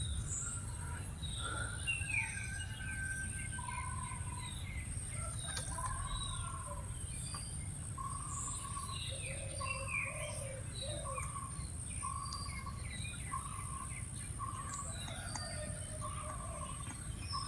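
Several wild birds calling and chirping, with one bird repeating a short note about every three-quarters of a second through the second half, over a steady high insect-like hum and a low outdoor rumble.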